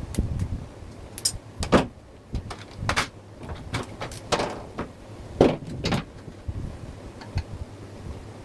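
Irregular knocks, clunks and short scrapes, about a dozen spread unevenly, some ringing briefly.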